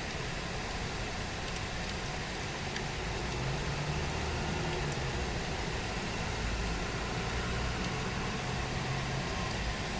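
Steady rain falling, with a motor vehicle's engine humming underneath from about three seconds in until near the end.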